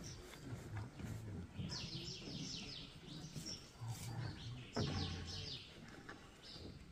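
A songbird singing twice, each time a quick run of high falling chirps, about two seconds in and again about five seconds in, over a low steady background.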